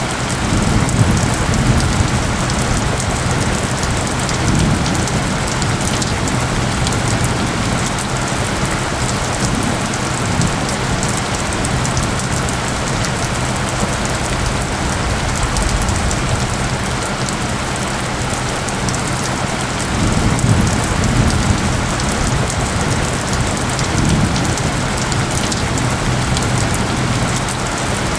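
Steady rain pattering, a dense even hiss, with low steady tones from the isochronic-tone track held underneath. Low rumbles swell up under the rain near the start and again about twenty seconds in.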